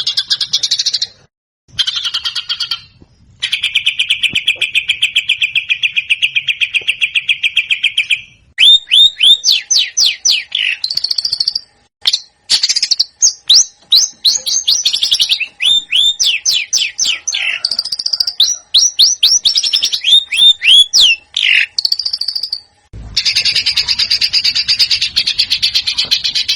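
Songbird song edited into a sequence of short clips with abrupt cuts between them: a fast, even trill of rapidly repeated notes, then long runs of quick, sharp, down-slurred whistled notes, and a dense high chatter near the end.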